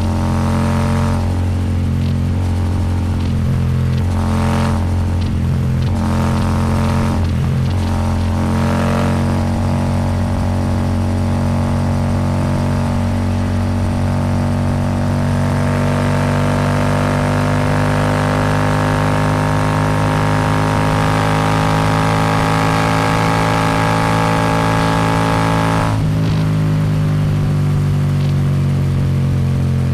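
Royal Enfield Super Meteor 650's parallel-twin engine running through a Rhino Racing slip-on exhaust while riding, with wind rush. The engine note is uneven at first, then climbs slowly as wind noise builds, and about 26 seconds in the throttle eases and the wind noise drops.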